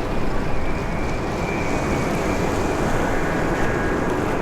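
Jet noise from an arriving Airbus A330-900 airliner's Rolls-Royce Trent 7000 engines: a steady rushing sound with a faint high whine over it.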